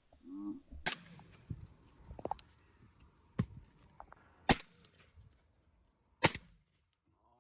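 Four shotgun shots spread over about five seconds, fired at crows; the third and fourth are the loudest.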